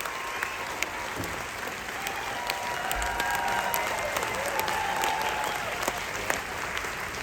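Audience applauding, a dense patter of many hands clapping, with a few voices cheering over it; the clapping thins slightly near the end.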